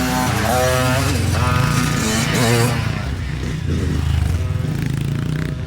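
Dirt bike engine running close to the microphone, its note rising and falling with the throttle on trail riding.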